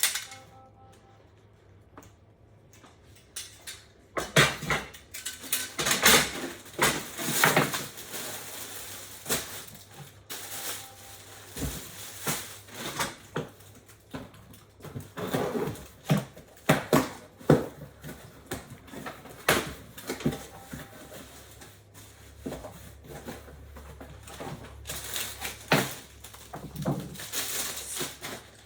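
Packaging being stripped off printer parts by hand: irregular crinkling, rustling and light knocks and clatter, starting about four seconds in.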